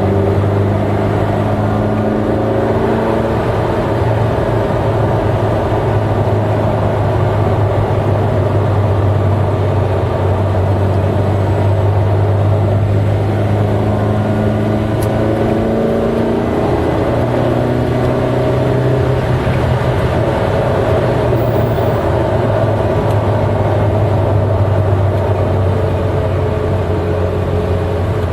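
Eight-cylinder car engine running steadily under way in a high gear, a constant low drone whose pitch drifts only slightly up and down.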